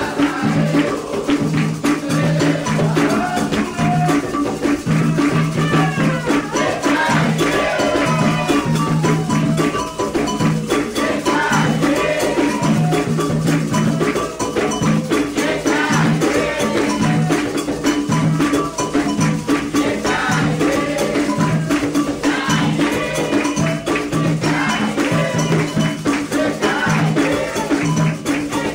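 Candomblé ritual music: a steady drum rhythm with rattles or shakers, and voices singing over it.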